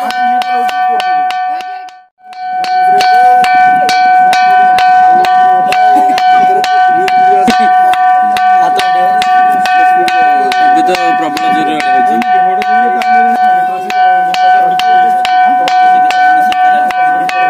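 A ringing rock struck again and again in a fast, even rhythm, about three strikes a second. Each strike gives a metallic, bell-like tone that rings on between strikes. The striking breaks off briefly about two seconds in, then resumes.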